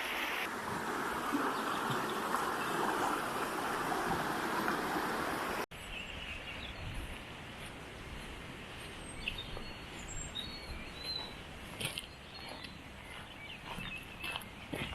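A river rushing steadily; about six seconds in, the sound cuts off abruptly to a quieter background with scattered short bird chirps and faint clicks.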